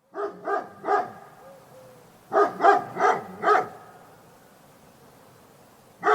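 A dog barking in quick runs: three barks, a pause of over a second, then four more barks, with another run starting at the very end.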